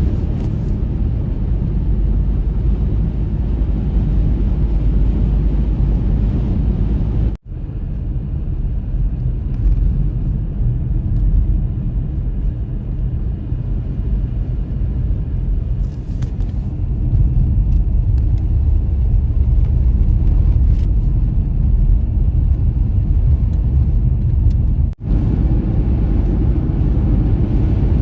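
Blizzard wind buffeting the microphone: a loud, dense low noise with no clear tone, broken by two abrupt drop-outs, about seven seconds in and near the end.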